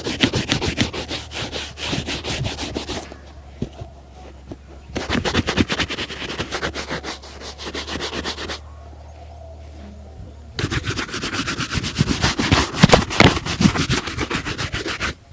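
Fast back-and-forth rubbing strokes on a leather shoe during shoe shining, in three bursts of a few seconds each with short pauses between them.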